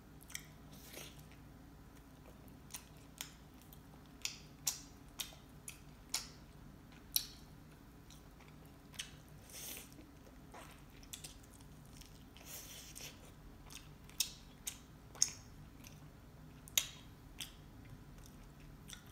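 A person chewing and biting into chicken wings close to the microphone: short, sharp mouth clicks and smacks at irregular intervals over a low room hum.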